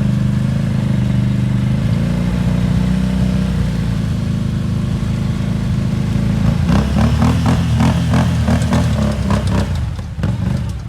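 ATV engine running steadily, then revved in a quick series of rising and falling bursts from about six and a half seconds in.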